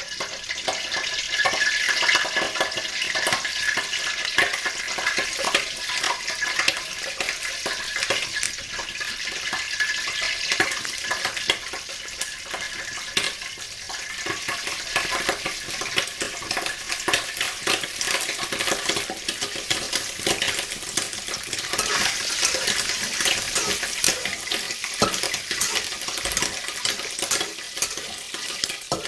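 Raw peanuts frying in a little oil in a wok over low heat: a steady sizzle with dense, fine crackling. Near the end a metal ladle scrapes and stirs them in the pan.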